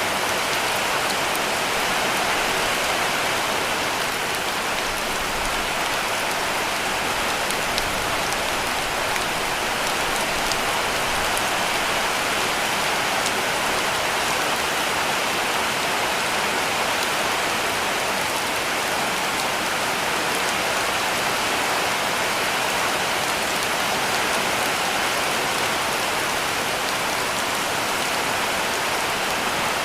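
Heavy rain falling on a cabin roof: a dense, even hiss with many small drop ticks scattered through it, steady throughout.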